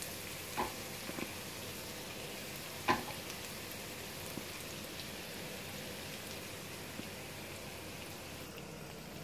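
Breaded chicken tenders sizzling steadily as they shallow-fry in canola oil in a frying pan on medium heat. A few short sharp clicks in the first three seconds, the loudest about three seconds in.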